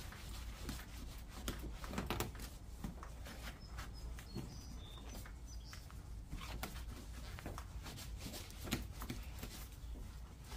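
A damp microfiber rag wiping and rubbing over a plastic headlight lens, making faint, irregular scrubbing and rustling.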